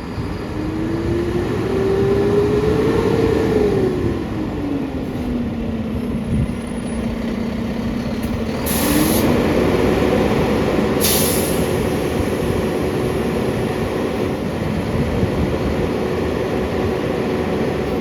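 Mack LR garbage truck's diesel engine speeding up and slowing down as it drives the McNeilus body's hydraulic packer: the pitch rises, drops back about five seconds in, then rises again and holds high. Two short air hisses come partway through.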